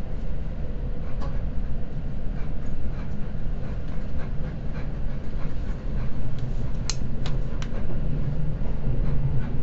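Seibu Red Arrow limited express train running at speed, heard from inside the car: a steady low rumble with light clicks of wheels over the track, and a sharper run of three clicks about seven seconds in.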